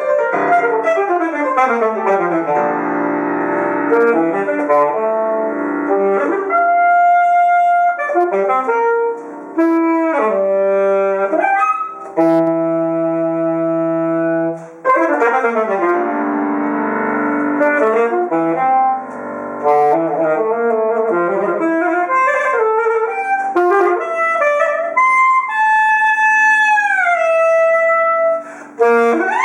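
Alto saxophone and piano playing a fast contemporary classical duet: quick piano runs under held saxophone notes, with long downward saxophone pitch bends near the end.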